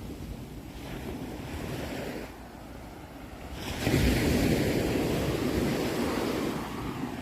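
Sea waves washing in, with one wave surging loudest about halfway through and then slowly easing off.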